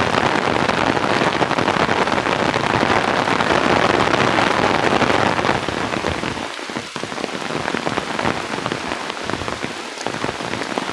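Heavy rain pouring down in a steady, dense hiss, a little quieter in the second half.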